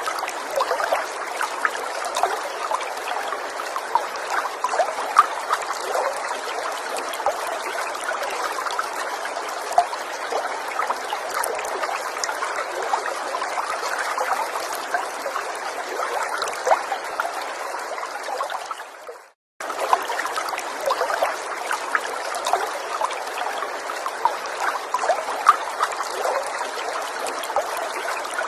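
Gentle water stream trickling and burbling steadily, with many small droplet splashes. About two-thirds through it fades quickly to a moment of silence and cuts straight back in, a loop seam in the recording.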